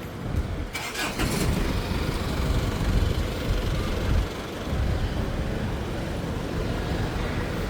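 Uneven low rumbling background noise with a few sharp clicks about a second in.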